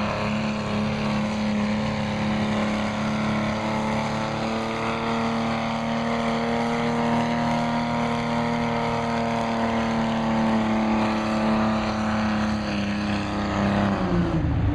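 A farm stock pulling tractor's diesel engine running under load at high, steady revs during a pull. About a second before the end its pitch drops as the throttle comes back.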